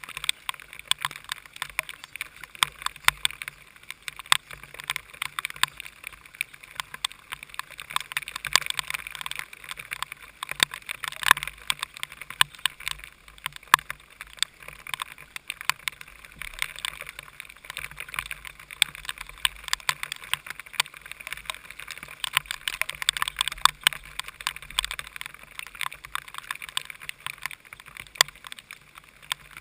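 Heavy rain and spray pelting a kart's onboard camera housing: a steady hiss full of irregular sharp ticks, with the engine only faintly heard beneath it.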